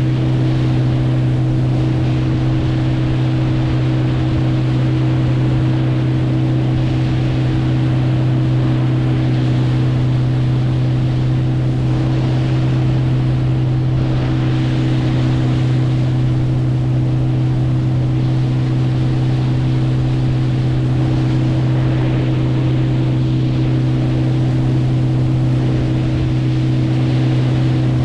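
A motorboat's engine running steadily at constant speed, a strong even hum with no change in pitch, over a wash of wind and water noise.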